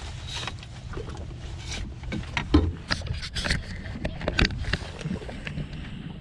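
Knocks and clatter on a small boat as a redfish is netted and brought aboard, with a heavy hollow thump about two and a half seconds in, over a steady low rumble.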